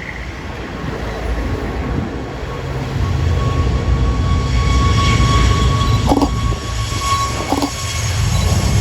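Jet airliner engines running: a loud low rumble that builds over the first few seconds, with a steady turbine whine above it. Two brief knocks come near the end.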